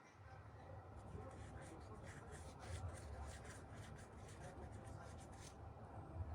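Panasonic FY-25TH1 ventilation fan running, heard as a faint, steady low hum that sets in at the start, with light scratchy ticks over it for most of the time.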